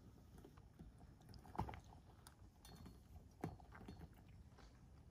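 Near silence, with a few soft mouth sounds and faint clicks, about two seconds apart, as a person tastes hot food from a spoon and chews.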